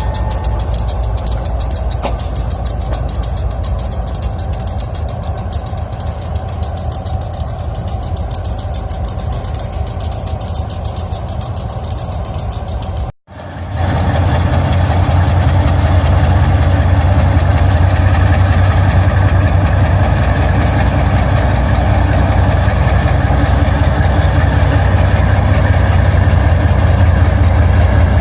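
Freight train rolling past on the rails. After a short break, a diesel locomotive engine runs steadily close by, louder and deeper, at idle.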